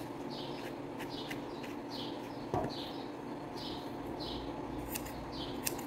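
Small bird chirping repeatedly in the background, short high falling chirps about every half second, over a steady low hum. One soft knock about two and a half seconds in.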